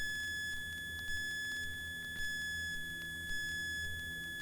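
Faint steady electrical whine in a Cessna 172's headset intercom audio, with a higher tone and a small tick coming and going about once a second, over a low engine hum.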